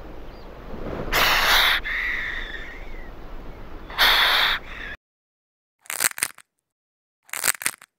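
A snake hissing twice, each hiss under a second, over a steady background hiss. After a sudden cut, a snail feeding makes two short clusters of crunching clicks.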